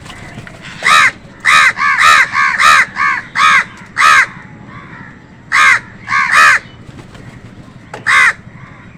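Crows cawing: a quick run of about nine harsh caws, a pause, three more, and one last caw near the end.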